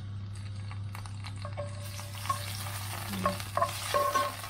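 Fresh rosemary sprigs sizzling in hot oil in a frying pan, the sizzle swelling about two seconds in, with metal tongs clinking and scraping against the pan as the sprigs are moved. A steady low hum runs underneath.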